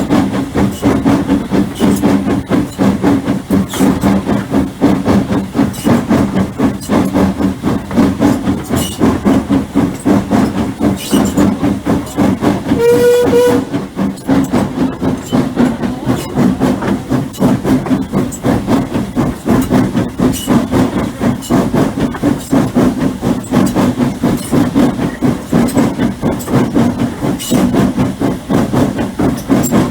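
Hunslet 0-6-0 saddle-tank steam locomotive running with its train, a steady rumble that pulses quickly. About halfway through there is one short whistle toot.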